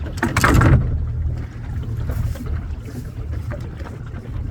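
Small fishing boat's engine running with a steady low rumble, with wind on the microphone. A brief rush of noise comes near the start.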